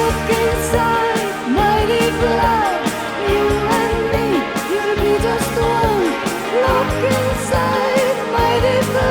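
AOR synth-pop music from the early 1990s: a steady drum beat under a lead melody that slides up and down in pitch.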